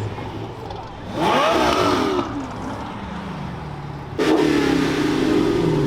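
Car engines revving as cars pull away. A short rev rises and falls about a second in, then a louder engine comes in suddenly at about four seconds and accelerates hard.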